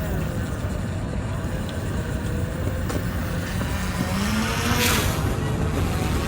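Engine running steadily with a low rumble, from a boat or a vehicle at the ramp. A brief hiss comes about five seconds in.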